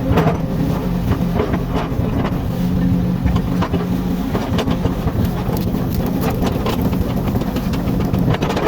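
Komatsu hydraulic excavator's diesel engine running steadily under work, with frequent short knocks and clatter over it.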